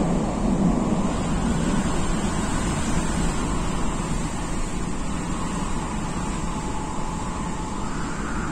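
MTR Tung Chung line K-Train running at speed, heard inside the carriage: a steady rumble of wheels on rail and running noise. A faint motor whine rises in pitch near the end.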